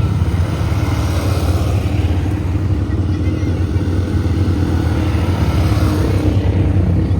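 ATV engine running steadily, with no rise or fall in revs.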